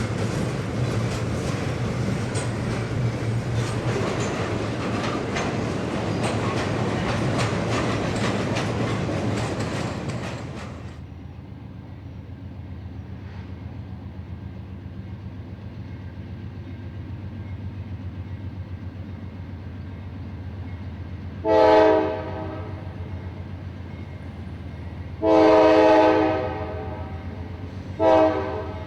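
A freight train rolling past, its wheels clicking over the rail joints. Then a diesel locomotive's engine hums steadily under three blasts of its multi-tone air horn: a short one, a long one and another short one.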